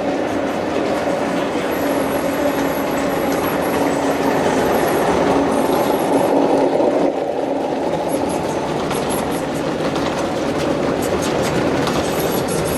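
G-scale model train running steadily on track, with a rumble of wheels on rail and a faint high squeal that comes and goes.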